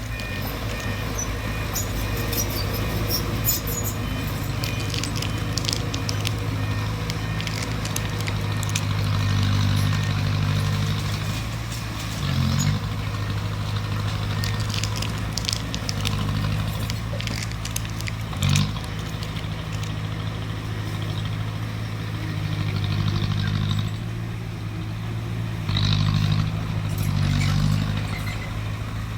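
Crawler bulldozer's diesel engine running steadily and swelling louder several times as it works, with scattered sharp clicks and crackles, most of them in the first few seconds.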